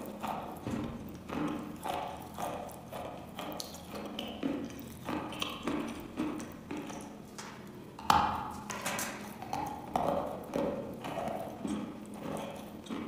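Chewing a mouthful of wet chalk: soft crunching about every half second, with one louder, sharper crunch about eight seconds in.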